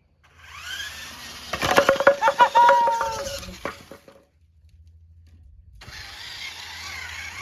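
Toy bowling pins clattering as a kids' monster truck drives into them, a quick cluster of knocks between about one and a half and three seconds in. A steady hissing whir starts near six seconds.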